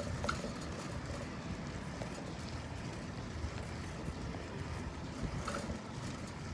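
Steady low rumble of a bicycle rolling along a paved path, with wind on the microphone. Two faint short chirps come just after the start and again about five and a half seconds in.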